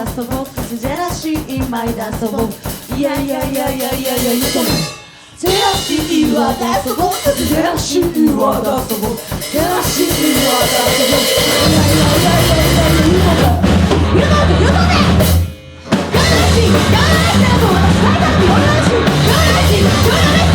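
Punk rock band playing: a fast drum beat with a singing voice over it, the whole band stopping dead for a moment twice, then a fuller, bass-heavy section with pounding drums.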